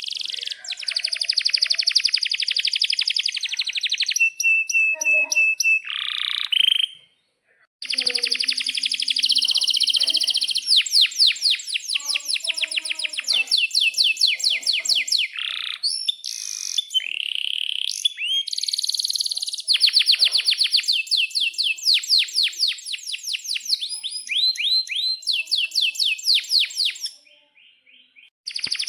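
Domestic canary singing a long, loud song of rapid rolling trills, sharp chirps and short whistled notes. It breaks off briefly twice, about seven seconds in and near the end.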